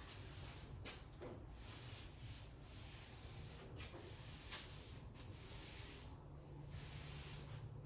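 Faint hand rubbing on a car body panel, uneven back-and-forth strokes, over a steady low hum.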